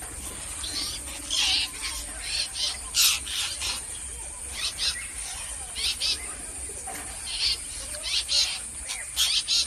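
Parrots calling: a series of short, harsh screeches repeated at irregular intervals, some in quick pairs.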